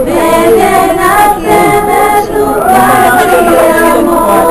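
A group of voices singing together, several lines at once.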